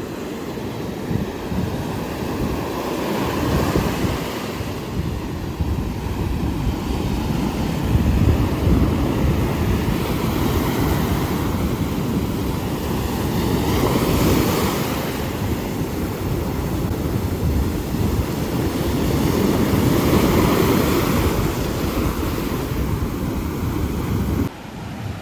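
Sea waves washing onto a beach, swelling and easing about every six seconds, with wind buffeting the microphone; the sound cuts off abruptly near the end.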